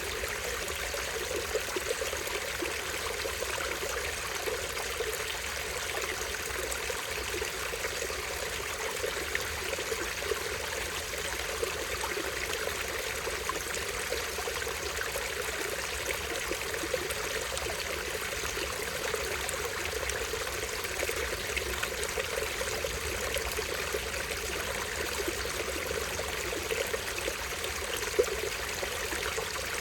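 A small stream flowing over a tiny waterfall: a steady, even rush of falling water that never lets up. A single brief click sounds near the end.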